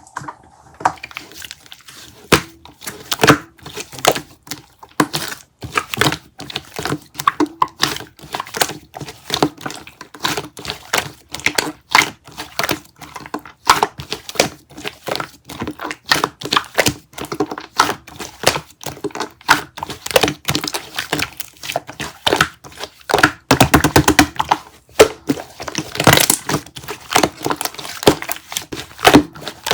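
Close-up handling noise: irregular clicks, taps and knocks with crinkling. A quick run of clicks comes about two-thirds through, and a brief louder scratchy rush follows a few seconds later.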